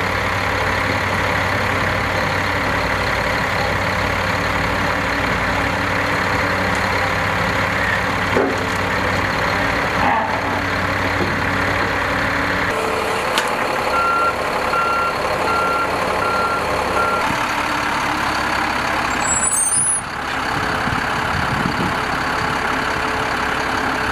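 Heavy machine's engine running steadily, with a backup alarm beeping about two times a second for some three seconds past the middle. A brief high squeal follows shortly after.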